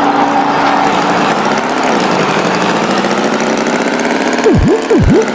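Cartoon tractor engine sound effect running steadily, with two quick swooping sounds that dive down in pitch and spring back up near the end.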